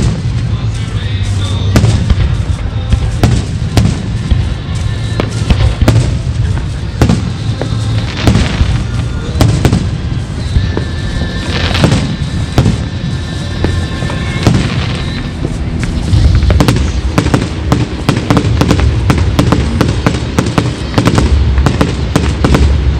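Aerial fireworks display: a dense run of sharp bangs and crackling over deep booms from bursting shells.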